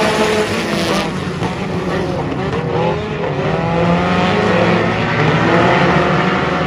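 Race car engine running hard, its pitch dropping about a second in as it lets off, then climbing again as it accelerates.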